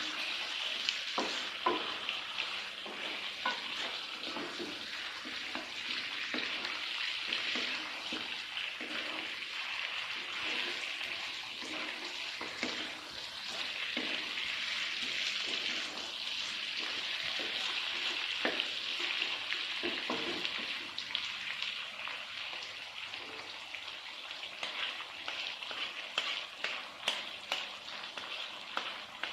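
Food sizzling in a hot frying pan while it is stirred, with scattered sharp clicks of a spatula against the pan.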